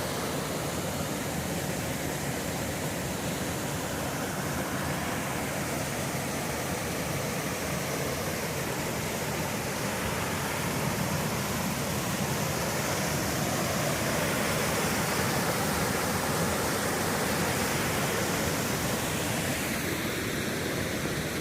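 Creek waterfall rushing steadily, a constant even roar of falling water that grows slightly louder about halfway through.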